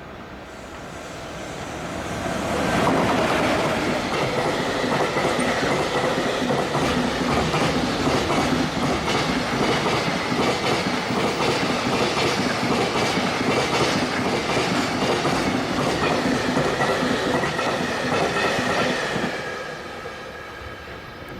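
Freight train passing at speed: its sound rises to full strength about three seconds in, then a long run of wagons goes by with a fast clickety-clack of wheels over the rail joints, fading away near the end.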